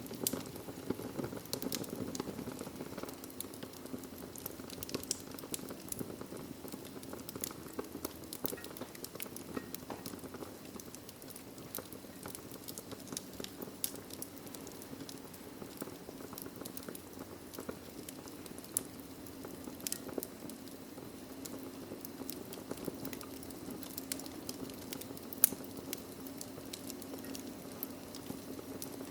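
Wood fire burning in a fireplace: a steady flame noise with frequent small crackles and pops, and one louder pop late on.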